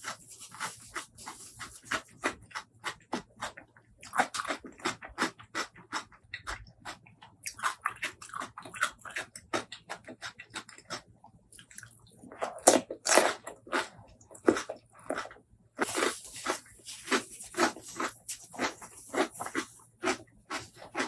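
Close-miked chewing and wet mouth sounds of a person eating: rapid runs of clicks and smacks, broken by a few short pauses.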